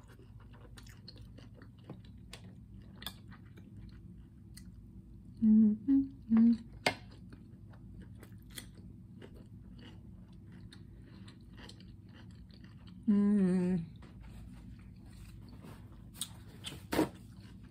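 Close-miked mouth sounds of someone eating sausage and raw cucumber: wet chewing with many small clicks and crunches. Three short hummed "mm" sounds of enjoyment come about five to six seconds in, a longer wavering hum comes about two thirds of the way through, and there is a sharp click near the end.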